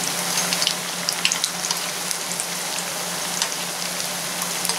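Besan-and-potato snack pieces deep-frying in hot oil: a steady sizzle with frequent small crackles and pops.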